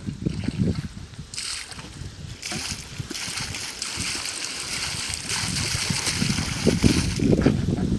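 Water gushing out of borewell delivery pipes in irregular surges, pushed up by compressed air from a 2 HP air compressor (air-lift double pumping), with a rushing hiss of air and spray.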